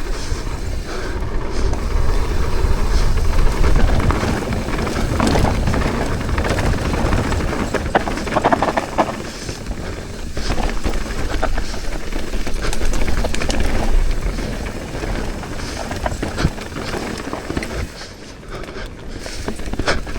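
Mountain bike descending a rough trail: a steady rumble of wind and tyres on dirt, with the chain and frame rattling and knocking over roots and bumps.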